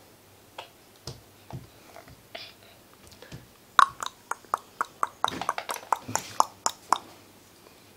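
Baby walker knocking and clicking: a few scattered knocks, then a quick run of about a dozen sharp hard knocks between roughly four and seven seconds in.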